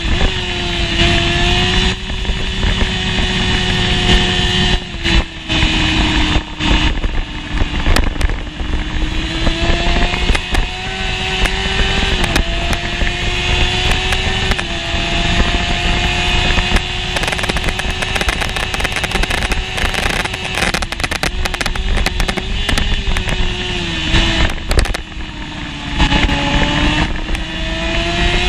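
Honda CBR600F1 inline-four racing engine at high revs under hard riding. Its pitch climbs through each gear and drops back at each gear change, several times over.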